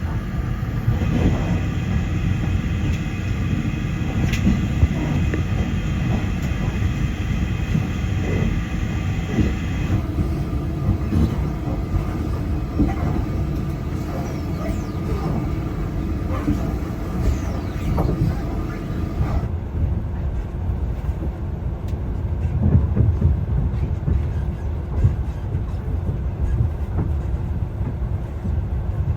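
Passenger train running on the rails, heard on board: a steady rumble with faint wheel clicks, and thin steady whining tones over the first part. The sound changes abruptly twice, about 10 and 19 seconds in.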